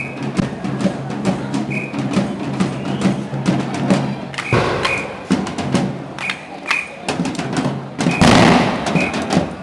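A procession band's drums and percussion playing a steady run of beats, with short high tones recurring every second or two and a low droning tone underneath. A loud burst of noise about eight seconds in is the loudest moment.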